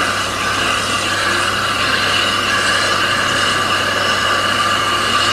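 Train running on a heritage railway: a steady, unbroken rumble of wheels on rail.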